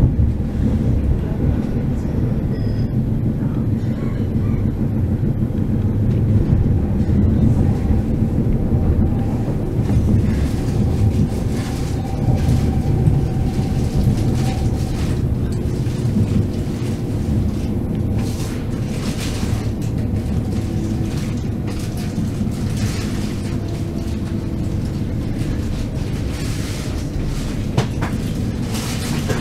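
Train in motion: a steady low rumble of wheels running on the rails, with a faint whine running through it and occasional clicks in the second half.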